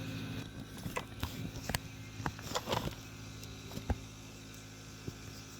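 Scattered light clicks and taps from the small parts of a disassembled solenoid water pump (coil, plunger, springs, gaskets, disc) being handled. The loudest knock comes near the four-second mark, over a steady low hum.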